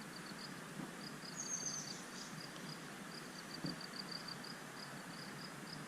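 Faint open-air ambience with an insect chirping in a steady run of short, high-pitched pulses, about five a second with brief pauses. A short higher trill sounds once about a second and a half in.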